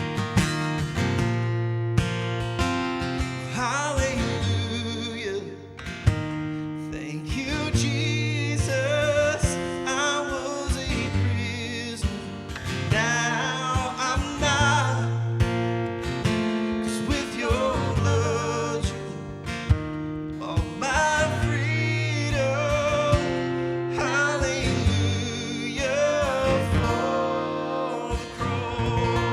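Acoustic guitar strumming a slow worship-song intro, with a melody line wavering over the chords.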